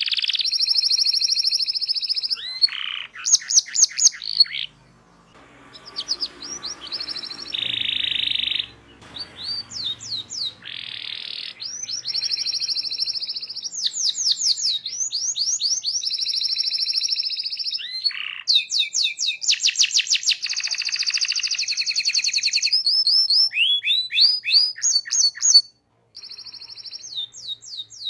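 Domestic canary singing a long, rolling song: fast trills held on one pitch, alternating with runs of quick rising chirps. The song cuts out for a moment near the end and then carries on.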